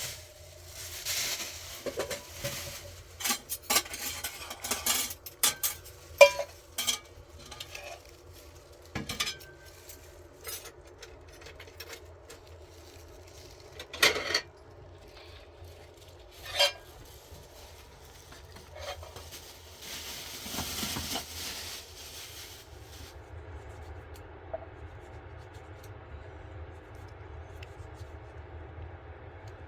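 Dishes, metal pots and utensils being handled, with a string of clinks and knocks, some ringing briefly, and two short stretches of scraping hiss over the first twenty seconds or so; after that only a faint low steady hum remains.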